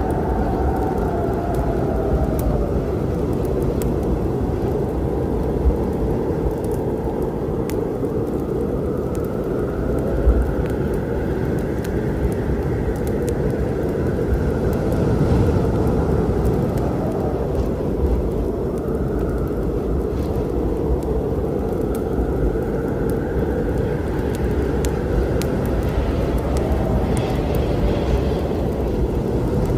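Storm ambience: a steady low rumble with wind howling in slowly rising and falling tones, over the faint, sparse crackle of a wood fire.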